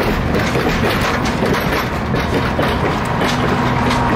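Railroad passenger coaches rolling past close by: a steady rumble of steel wheels on rail, with repeated clicks as the wheels cross rail joints.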